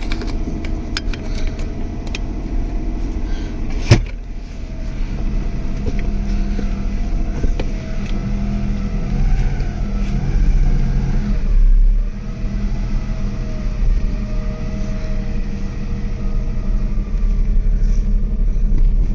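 Subaru SVX's 3.3-litre flat-six engine running steadily at idle, with a single sharp thump about four seconds in and a brief swell in level a little before the end.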